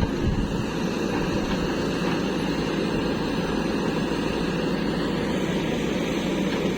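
Diesel engines of earth-moving machinery, a backhoe loader and tractors, running steadily while soil is dug.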